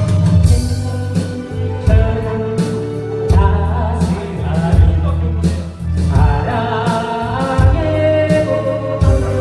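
A singer performing a Korean pop song live over a backing track, with a strong, steady bass line.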